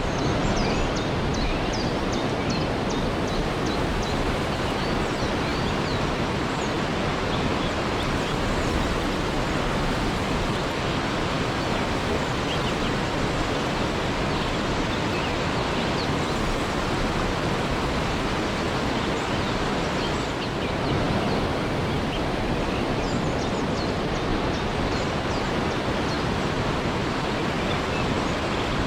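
Waterfall rushing in a steady, even roar of falling water. Short, faint high chirps come through briefly near the start and again after about 23 seconds.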